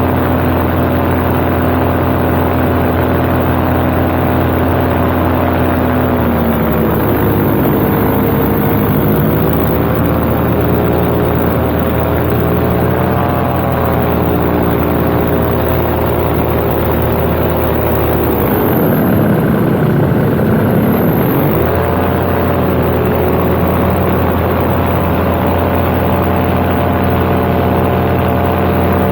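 Paramotor engine and propeller running steadily under throttle. The engine note drops in pitch about six seconds in, and from about eighteen to twenty-two seconds it is throttled right back before climbing again to its earlier pitch.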